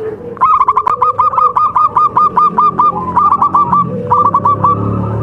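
Zebra dove (perkutut) calling a fast series of short staccato notes, about five a second, in three runs broken by two brief pauses.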